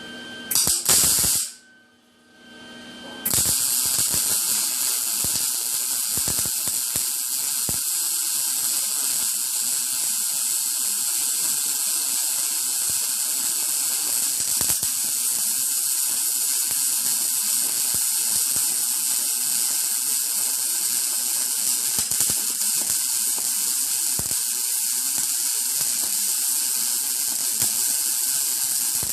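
MIG welding arc, shielded with an argon/CO2 mix, crackling steadily as a bead is run. A brief burst of arc comes about a second in, then it goes quiet for a moment before the arc strikes again about three seconds in and runs on without a break.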